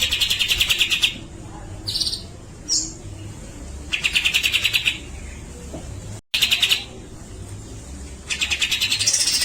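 Grey-cheeked bulbul (cucak jenggot) calling in loud bursts of rapid, rattling chatter, each burst about a second long, repeated several times with short pauses.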